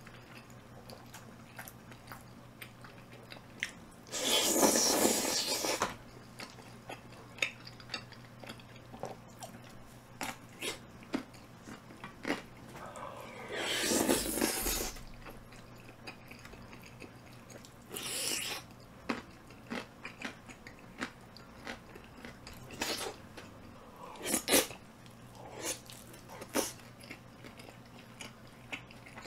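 Close-miked mouth sounds of a person eating tteokbokki mixed with chicken and pizza: chewing and biting with many small wet clicks, and a few louder, longer noisy stretches about four, fourteen and eighteen seconds in.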